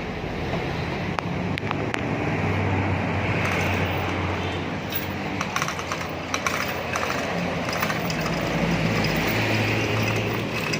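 A motor vehicle engine running steadily, its low hum swelling and easing, with scattered light clicks.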